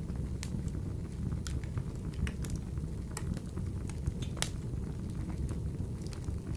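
Wood burning in a wood-burning stove: a steady low rumble of flame with scattered sharp crackles and pops, the strongest pop about four and a half seconds in.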